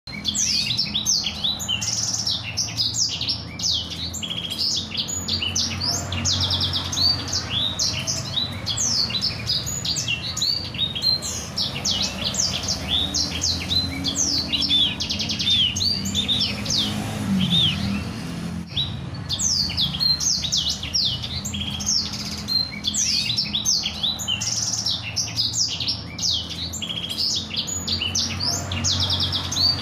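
Blacksang songbird singing a fast, continuous rolling song of high chirps and trills, thinning briefly about two-thirds of the way through, over a low steady hum.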